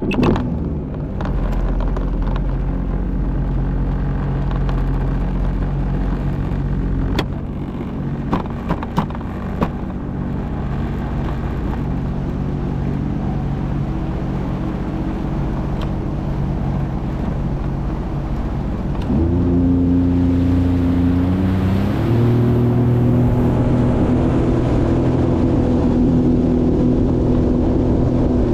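Jet ski engine starting and running at a steady low speed, with a few sharp knocks partway through; about two-thirds of the way in the throttle opens and the engine runs faster and louder.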